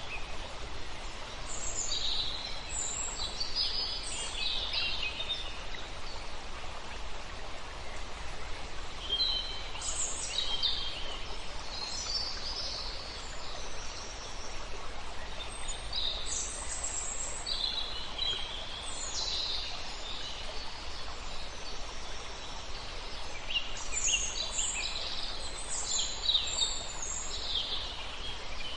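Songbirds singing in bursts of quick high chirping phrases, several birds at once, over a steady rush of running river water.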